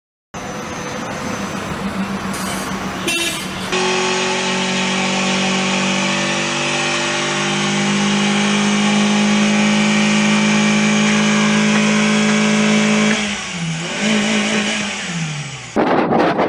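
Car engine running at a held, steady high pitch that steps up slightly partway through, then falls away in two downward glides near the end as the revs drop. A short stretch of road and vehicle noise comes before it.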